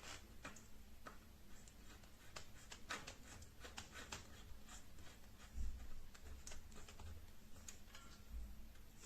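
Faint scattered clicks and ticks, with a few soft low knocks about halfway through and near the end.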